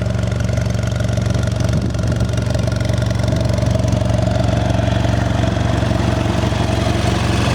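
The 2014 BMW F800 GS's fuel-injected, liquid-cooled 800cc parallel-twin engine idling steadily.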